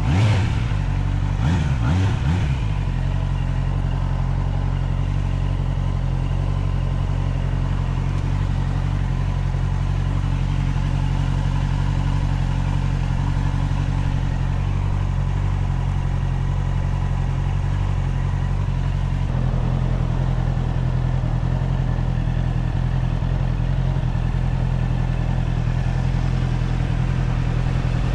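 Honda CBR650R's inline-four engine running at steady riding revs, with a brief rise and fall in revs in the first couple of seconds and a change to a slightly different steady note about two-thirds of the way through.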